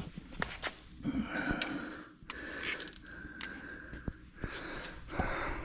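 Light metallic clinks and knocks of tools and metal parts being handled, some with a short ringing tone.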